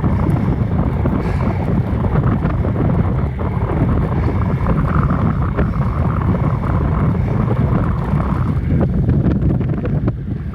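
Steady wind rushing over the phone's microphone while riding a bicycle.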